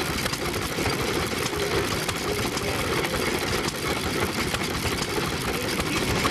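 Vintage engine-driven machinery running steadily with a fast, even mechanical clatter.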